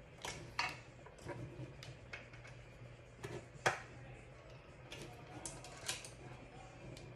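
Irregular clicks and light metallic taps of a screwdriver and wrench working a screw into a tumbler turner's parts, the loudest knock a little past halfway, over a faint steady low hum.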